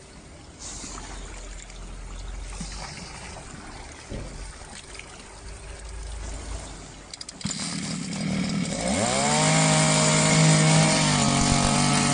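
Small gasoline engine of a floating engine-driven water pump starting up about seven seconds in, rising in pitch, then running steadily at high speed.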